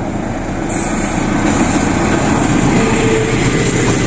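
Passenger train hauled by a diesel locomotive passing close by: engine running and steel wheels running over the rails. The noise is steady and gets louder about a second in.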